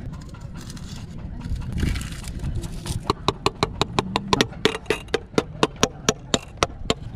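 A rapid series of sharp, ringing knocks, about four or five a second, starting about three seconds in and stopping just before the end.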